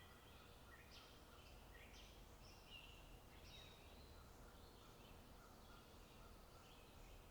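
Faint birdsong: a small bird's short chirps and quick rising notes, one or two a second, over a low steady rumble of wind.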